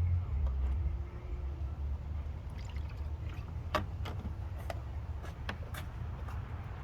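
A 2014 Ford Escape's 1.6L four-cylinder engine idling as a low, steady rumble while its cooling system is leak-tested after a coolant tee repair. About six sharp clicks come in the middle.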